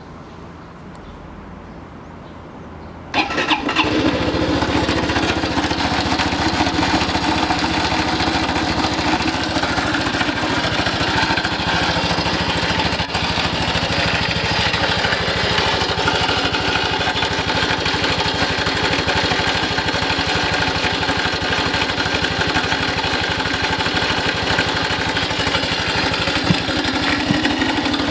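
Honda Cross Cub's 110 cc single-cylinder engine, a new replacement engine assembly, starting about three seconds in and then running steadily at idle. It is run the morning after the swap to check for an abnormal engine noise the owner has been chasing.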